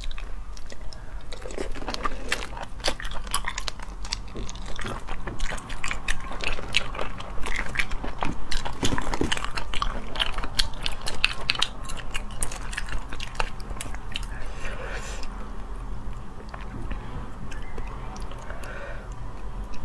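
A person chewing tender sea snail meat, with many quick wet clicks and smacks of the mouth, busiest around the middle.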